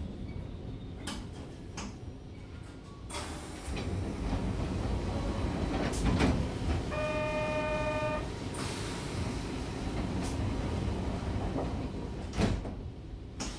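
Train sound effect: a steady low rumble of a running train with scattered clicks and knocks, and a steady pitched tone sounding for about a second midway.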